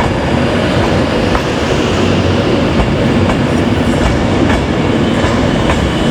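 Class 390 Pendolino electric train pulling out of the station: a steady rumble of its wheels and running gear, with faint irregular clicks of wheels crossing rail joints.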